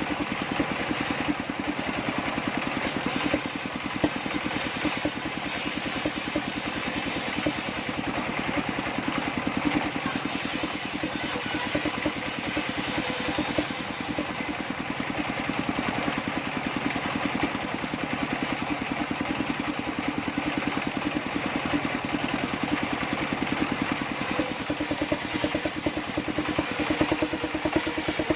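Engine powering a sawmill table circular saw, running steadily with a rapid, even pulsing beat.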